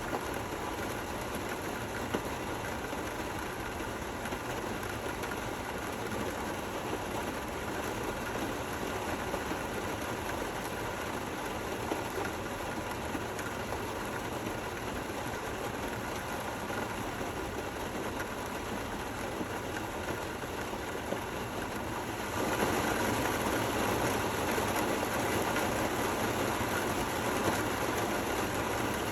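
Steady rain falling, an even hiss with a few faint drop ticks; it steps up suddenly in loudness about 22 seconds in.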